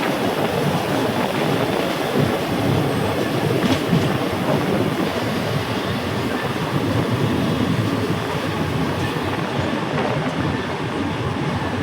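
A passing train: a steady rumble and rattle of wheels running over the rails, with a few faint clicks.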